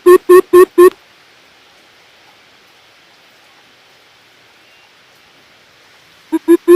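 Coucal's deep hooting call: a series of evenly spaced hoop notes, about four a second, stops about a second in. A new series begins near the end, over a steady background hiss.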